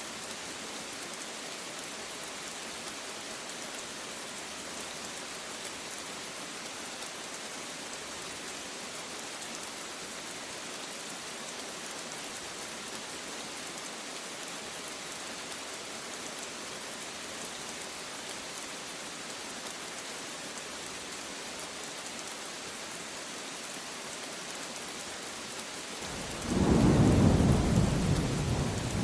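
Steady rain hissing on a surface, then near the end a sudden loud roll of thunder rumbling low and deep, louder than the rain.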